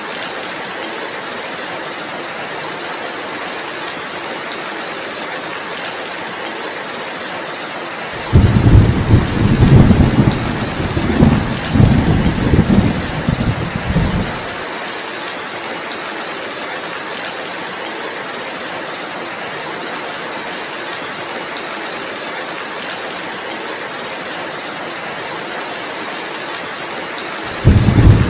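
Steady heavy rainfall with a long low rumble of thunder about eight seconds in, lasting some six seconds, and another rumble starting near the end.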